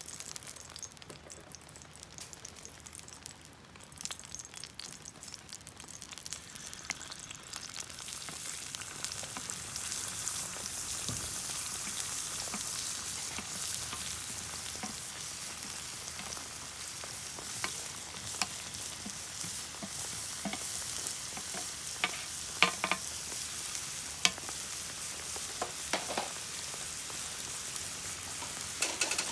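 Food sizzling in a frying pan. The sizzle builds over the first several seconds and then holds steady, with a few sharp clicks of a utensil against the pan in the second half.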